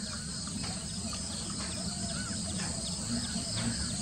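Outdoor natural ambience: a steady high-pitched insect drone, with scattered short bird chirps over a low steady rumble.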